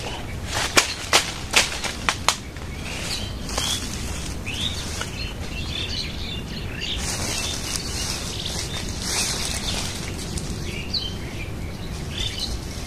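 Small birds chirping against steady outdoor noise, with a few sharp snaps or cracks in the first couple of seconds.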